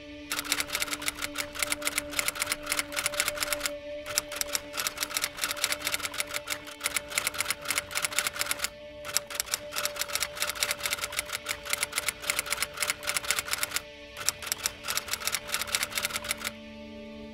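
Rapid, dense mechanical clicking in runs of about five seconds separated by brief pauses, over a steady low drone; the clicking stops near the end.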